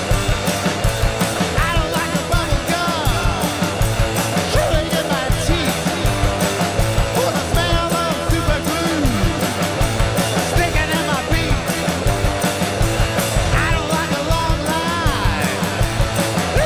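Rock band playing live in a studio session: electric guitar, bass and drums, with a steady, driving beat and bending, sliding pitched lines over it.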